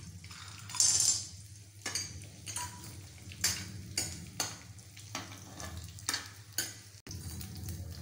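Pieces of edible gum (gond) frying in hot ghee in a metal kadhai, with a burst of sizzling about a second in. A steel spatula stirs them, knocking and scraping against the pan in repeated short clinks.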